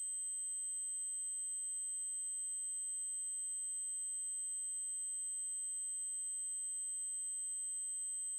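Synthesized 8192 Hz triangle-wave tone, a single steady high-pitched whine held without change.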